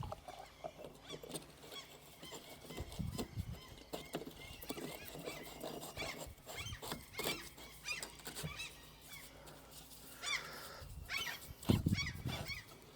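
Light clicks and knocks of small parts being handled and refitted on the tractor's fuel filter, with a heavier thump near the end. Short high squeaky calls come about ten seconds in and again near the end.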